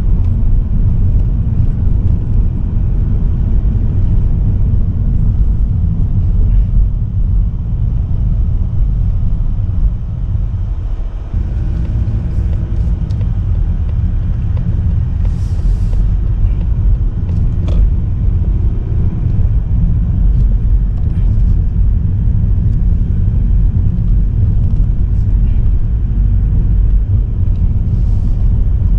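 Steady low road rumble of a car in motion, heard from inside the cabin, dipping briefly about a third of the way through.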